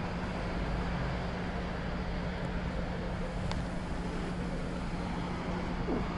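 Motorcycle engine running steadily under a constant rush of road and wind noise, with one low steady hum held throughout.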